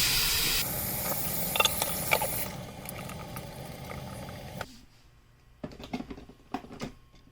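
Water pouring into the small water tank of a steam foot spa massager, a steady pour that stops suddenly about four and a half seconds in. A few light clicks and knocks follow.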